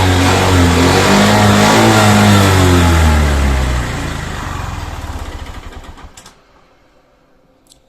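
Suzuki Access 125 scooter's single-cylinder four-stroke engine being revved up and down a few times. About four seconds in it is switched off and runs down to silence.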